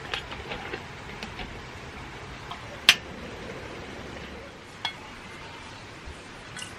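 Dishes and utensils being handled: a scatter of small clinks and knocks, one sharp clink about three seconds in, over a steady background hiss.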